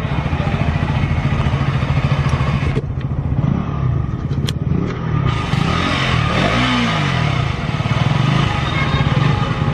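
KTM 200 cc single-cylinder motorcycle engine idling steadily. About six to seven seconds in, a blip of the throttle raises the pitch and lets it fall back to idle.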